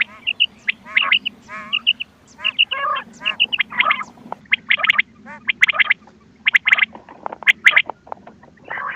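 Quail calls from a cassette recording: many short, sharp calls repeated in quick, overlapping bursts, some with a wavering pitch, over a steady low hum.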